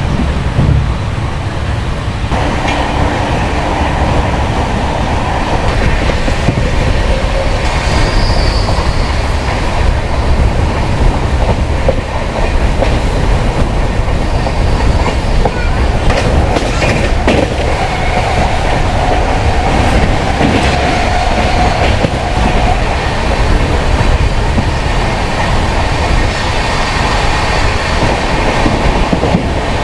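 Express passenger train running at speed, heard from inside the coach: a steady rumble of wheels on rail with clickety-clack of rail joints and a faint wheel squeal now and then.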